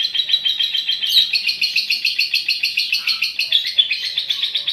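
Female lovebird's long chattering call (ngekek panjang): an unbroken run of rapid, sharp high chirps, around ten a second.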